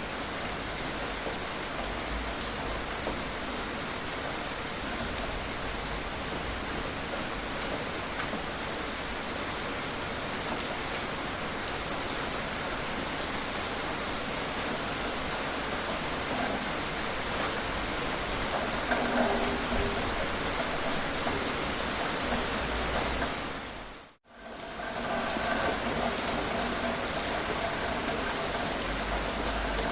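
Steady rain falling and pattering on surfaces, an even hiss of drops. About three-quarters of the way through it fades out to silence for a moment, then comes back.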